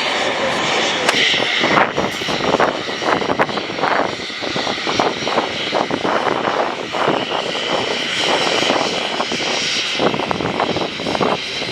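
Private jet's engines running at idle on the ramp, a steady high hiss, with irregular short clatter and knocks over it.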